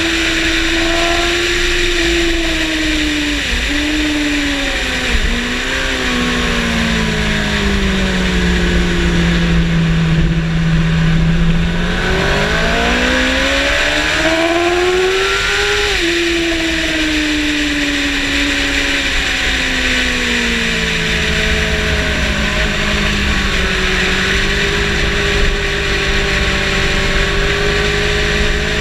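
Yamaha motorcycle engine heard from on board over heavy wind rush. The revs fall over several seconds with a few quick blips as it shifts down, hold low briefly, climb hard for about four seconds, then drop away and settle to a steadier pitch near the end.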